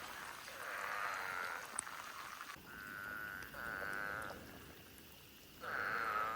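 Eastern spadefoot toads calling: four short, buzzy, nasal calls, each under a second, with two of them back to back near the middle.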